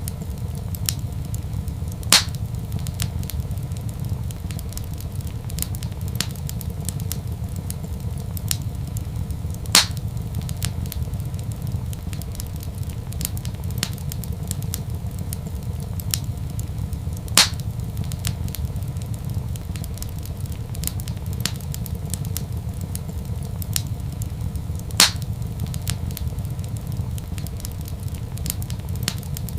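Wood fire crackling in a fireplace over a steady low rumble: small crackles all through, and four louder sharp pops evenly spaced about seven and a half seconds apart.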